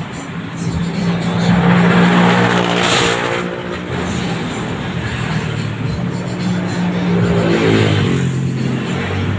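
Suzuki Raider 150 motorcycle's single-cylinder four-stroke engine running and being revved, its pitch rising and falling near the end, with a short hiss about three seconds in.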